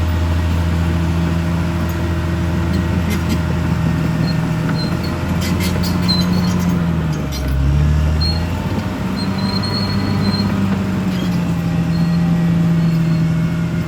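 Caterpillar D6R XL bulldozer's diesel engine running steadily. About seven seconds in its pitch dips briefly as it takes load, then recovers. Short high squeaks and clicks come around the middle.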